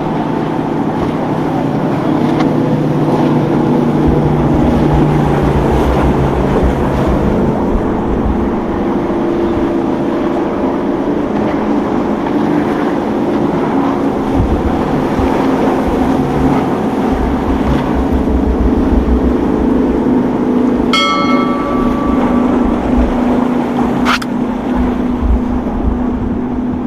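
Motorboat engines running steadily as boats pass through the inlet, with wind buffeting the microphone. A short ringing tone sounds about 21 seconds in, and a single sharp click follows a few seconds later.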